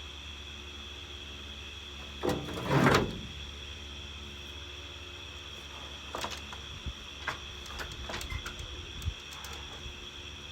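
Wooden boards set down with one loud scraping clatter about two seconds in, then a few lighter knocks and taps as the wood is handled.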